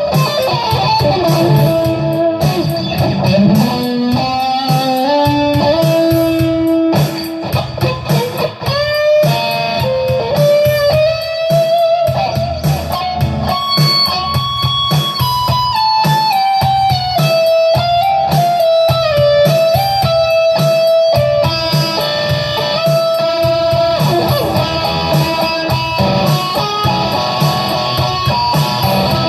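Electric guitar playing an improvised lead line, with notes sliding and bending up and down in pitch.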